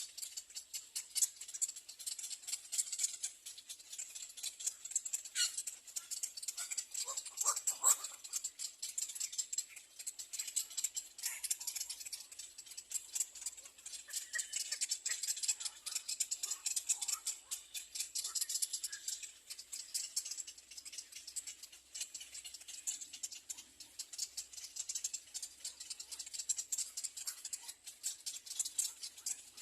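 Little egret nestlings begging for food: a continuous, fast, harsh rattling chatter, with a few short falling calls about six to eight seconds in.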